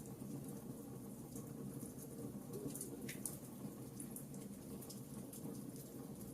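Wood fire burning in a fireplace: a steady low rumble of flames with scattered sharp crackles, one louder pop about three seconds in.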